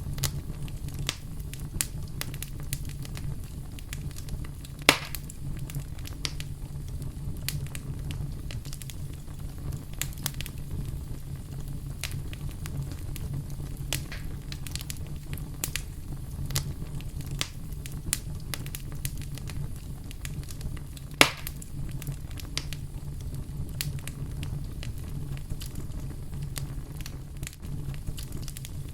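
Wood campfire crackling steadily with many small pops, and two louder sharp pops, about five seconds in and again about twenty-one seconds in, over a low steady rumble.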